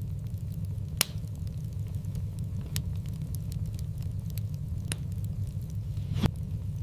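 Wood fire crackling in a fireplace: a steady low rumble of the flames with sharp pops, the loudest about a second in and near the end, and fainter ticks between.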